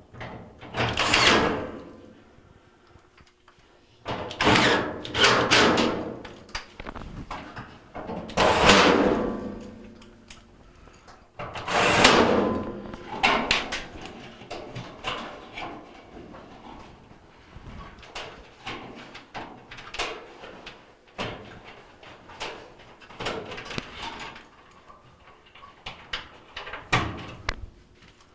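Dryer's sheet-metal cabinet panels being handled and refitted: several loud scraping slides in the first half, then a run of small metal clicks and knocks as parts are set and screwed in.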